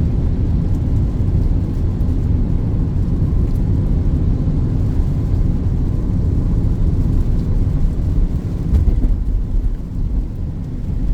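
Steady low rumble of a Peugeot 2008 driving uphill, heard from inside the cabin: engine and tyre noise on a wet road.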